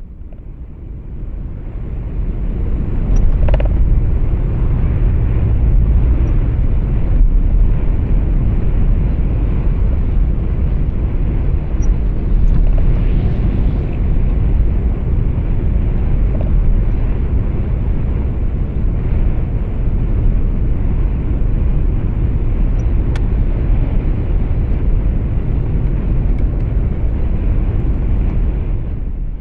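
Low, steady rumble of engine and road noise heard from inside a moving truck's cab, fading in over the first few seconds and then holding level.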